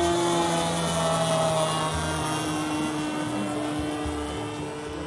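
Radio-controlled model airplane's motor and propeller buzzing in flight, the pitch sliding down and the sound fading as it passes and moves away.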